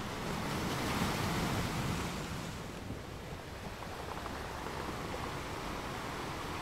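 Sea waves washing in, with wind on the microphone; the surf swells about a second in and eases after that.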